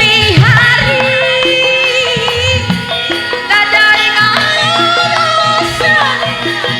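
Javanese gamelan music for a limbukan interlude: a full ensemble with kendang drum pulses and a wavering melodic line that sounds sung, played loud and continuous.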